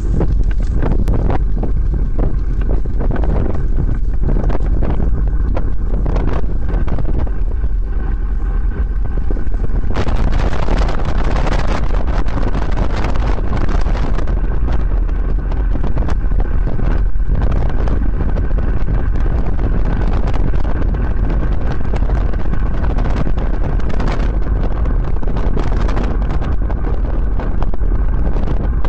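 Wind buffeting the microphone of a camera on a moving bicycle: a loud, steady low rumble with scattered clicks, growing a little louder about ten seconds in.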